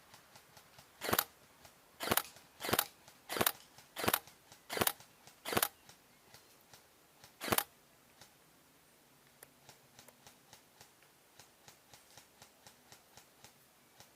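Airsoft electric rifle, a Tokyo Marui SCAR-H next-generation recoil shock gun, firing eight single shots at about one every 0.7 s, the last after a short pause. Fainter clicks follow in the second half.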